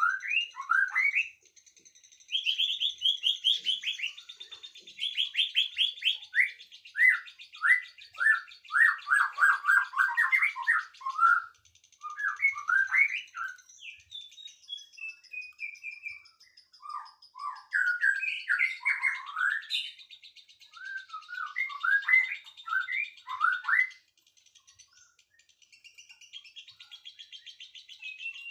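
Songbirds chirping and singing: quick runs of loud, short chirps, with a fainter high trill behind them. The chirping pauses for a couple of seconds near the end, then resumes.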